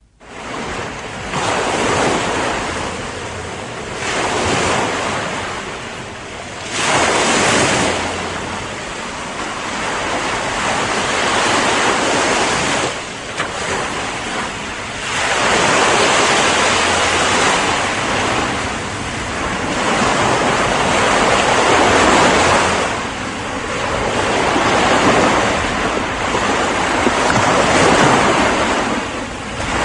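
Ocean surf: waves breaking and washing in a continuous rush that swells and eases every few seconds. The sound fades in from silence at the very start.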